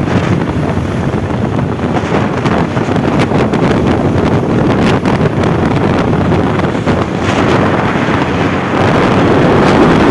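Heavy wind noise buffeting the microphone of a motorcycle ridden at highway speed, with the bike's running noise mixed in.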